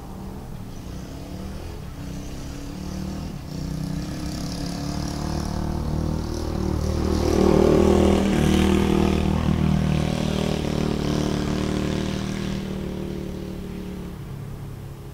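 Dirt bike engine running at a fairly even pitch, growing louder to a peak about halfway through and then fading away.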